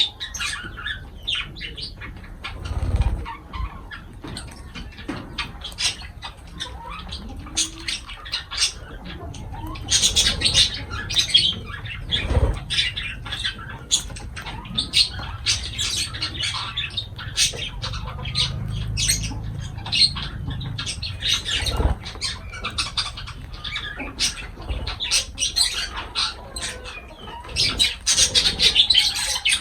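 Pet lovebirds chattering in a run of short, sharp chirps and squawks that come in busy flurries, with a few dull thumps between them.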